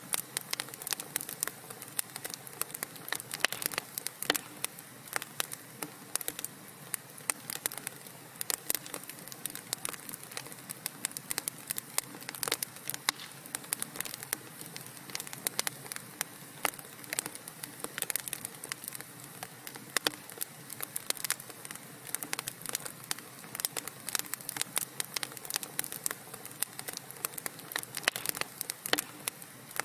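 Wood fire crackling in a fireplace: many irregular sharp pops and snaps over a soft steady hiss of burning.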